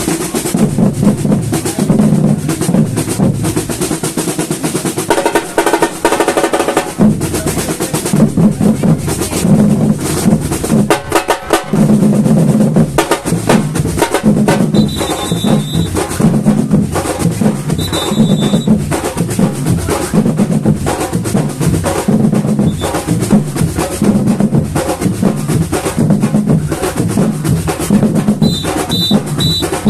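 Samba batucada drum ensemble playing: low surdo-style bass drums beat a steady pulse about once a second under snare drums and other percussion. The bass drums drop out briefly several seconds in, and short high whistle blasts sound a few times later on.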